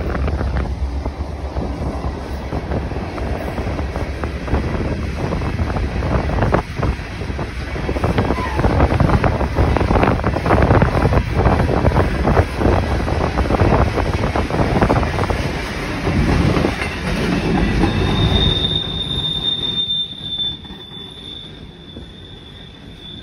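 Freight train of open-top hopper cars rolling past, steel wheels clattering over the rail joints in a dense run of clicks that fades about twenty seconds in. A high, steady whine comes in near the end.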